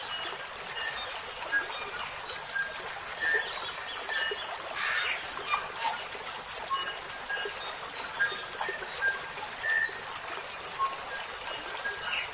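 Small birds chirping in many short, high notes over a steady trickle of running water, with one louder, harsher call about five seconds in.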